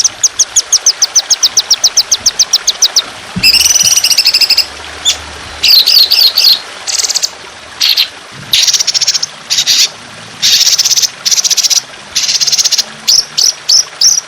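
A songbird sings a tutor song. It opens with a rapid run of sharp, high, falling notes, about ten a second for three seconds, then breaks into harsh buzzy trills and chattering phrases, over a trickle of water.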